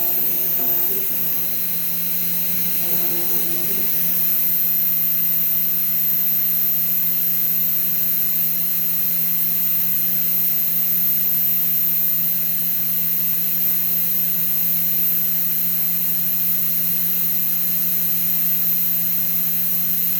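Fox Alien XE-PRO CNC router running steadily, a constant hum with a thin high whine and hiss.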